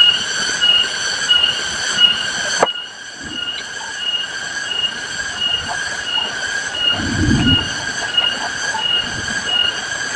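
A shrill, steady drone of high whistling tones pulsing about one and a half times a second, over the hiss of heavy rain. A low thump comes about seven seconds in.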